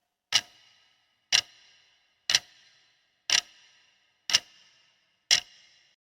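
Clock-like ticking: six sharp ticks about a second apart, each with a short ringing tail.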